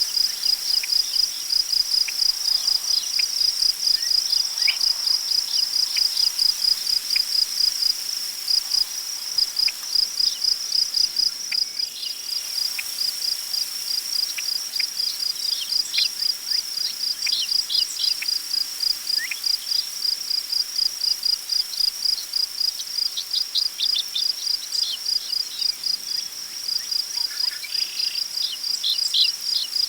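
Crickets chirping in a steady, rapid pulse, with scattered short bird calls over it that come in small clusters midway and near the end.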